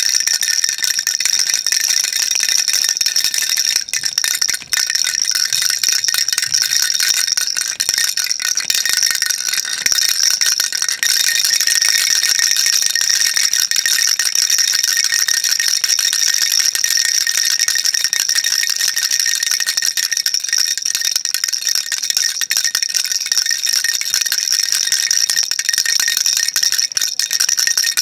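Baby rattle shaken continuously and quickly, a dense, unbroken rattle with a steady high ringing tone running through it.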